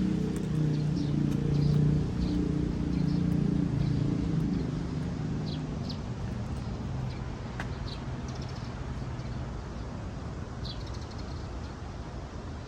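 A motor vehicle's engine running low and fading away over the first half, with short high bird chirps here and there over a steady hiss.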